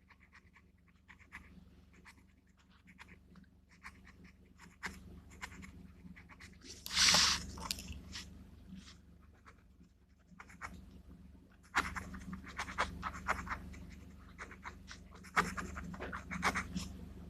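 Gel pen scratching and tapping on paper with handling noises, in irregular small clicks, with a louder rustle about seven seconds in and busier strokes from about twelve seconds.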